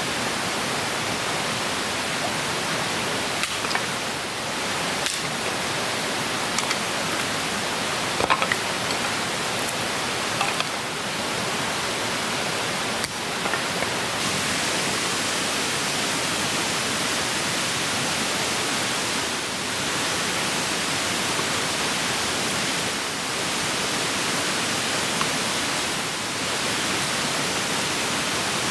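Clear mountain stream rushing steadily, an even wash of water noise, with a few small clicks and snaps in the first half.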